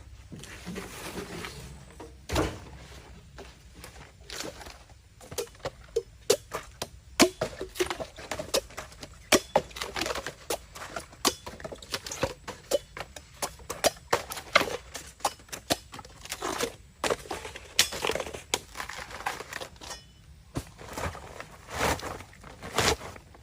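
Bamboo being chopped: a run of sharp, irregular cracks and knocks, often several a second in quick clusters.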